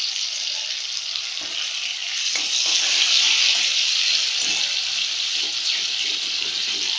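Ginger-garlic paste and red chilli powder sizzling as they fry in hot oil in a metal kadai, a steady hiss that swells a little past two seconds in. From about halfway a metal spoon stirs and scrapes in the pan.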